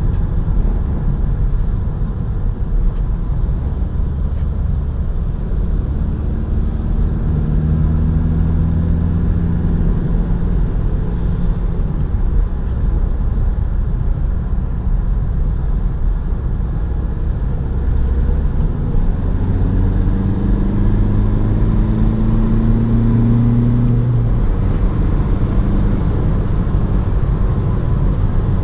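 Opel Astra 1.6 BiTurbo CDTI's four-cylinder twin-turbo diesel engine pulling over a steady road rumble. Its note climbs in pitch twice, from about six seconds in and again from about twenty seconds in.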